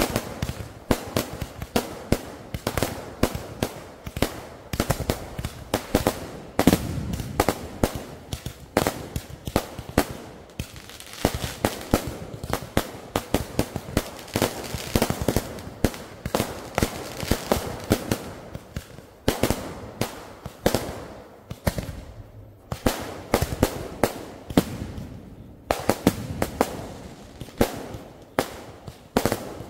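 Fireworks going off in a dense, continuous barrage: many sharp bangs and crackles a second, with a low rumble under them, thinning briefly twice in the last third.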